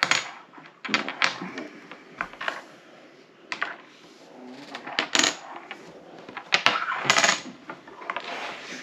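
Irregular sharp clicks and clacks of small hard game pieces set down on a table, about a dozen scattered at uneven intervals.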